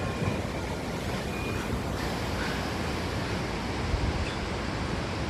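Strong thunderstorm wind blowing steadily through trees, with wind rumbling on the microphone; a stronger gust hits about four seconds in.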